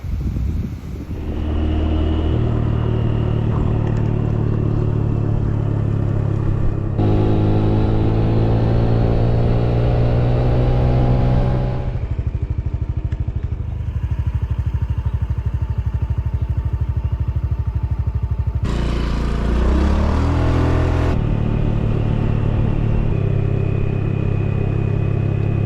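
A motorcycle engine running while it is ridden. Its pitch rises as it speeds up about seven seconds in, and it dips and climbs again around nineteen seconds.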